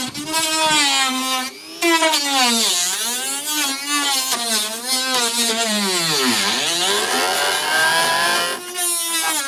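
Cordless drill driving screws. The motor's whine repeatedly drops in pitch as the screw bites and rises again, with a short pause about one and a half seconds in.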